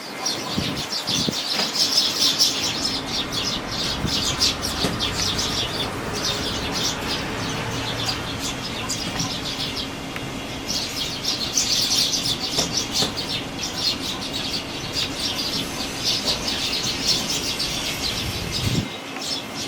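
Fledgling sparrows chirping rapidly, many short high notes packed together and swelling in waves, over the rush of strong wind.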